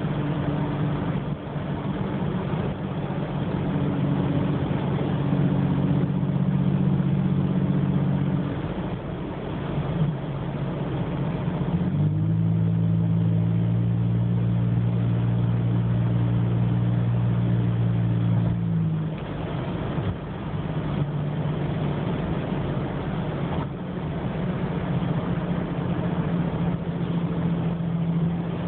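2008 Toyota 4Runner's 4.0 L V6 running through an aftermarket DirtyDeeds muffler, with the rear resonator deleted and the exhaust exiting at the side behind the rear tire: a steady, deep exhaust drone while driving. Its pitch shifts to a new steady note a few times as speed or gear changes.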